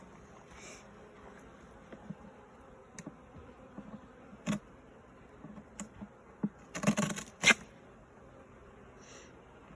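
Honey bees buzzing around an open hive, with a few knocks and scrapes of wooden hive parts being handled: one about halfway through and a louder cluster a couple of seconds later.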